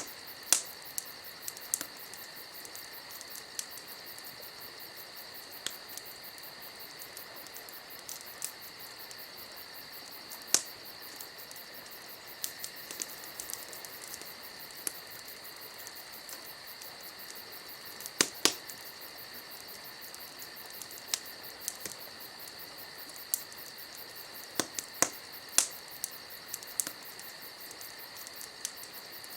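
Wood fire crackling, with irregular sharp pops and snaps, a few louder ones clustered around the middle and near the end, over a steady high-pitched hiss.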